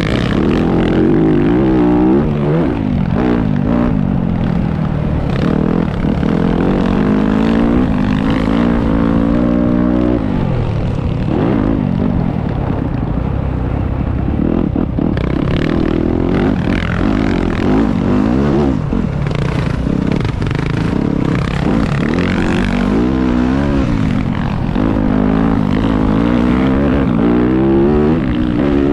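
Motocross bike engine revving up and down again and again as it rides, its pitch climbing and dropping many times over the stretch.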